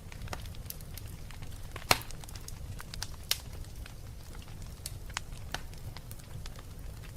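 Wood fire burning in a fireplace, crackling with irregular pops and snaps over a low steady rumble. A loud sharp snap comes about two seconds in and another about a second and a half later.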